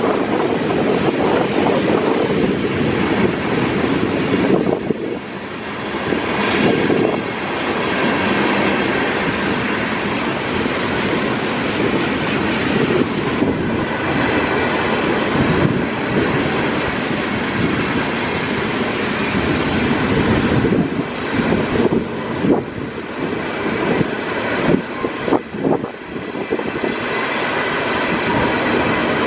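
Train passing at trackside: the steady running noise of railcars going by, with wheels clicking over rail joints, the clicks clustered near the end.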